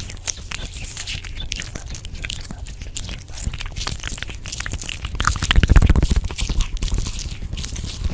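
Close-miked, layered crunching and crackling, a dense stream of small clicks and crunches. About five and a half seconds in, a louder stretch with a low rumble swells up for about a second and then eases.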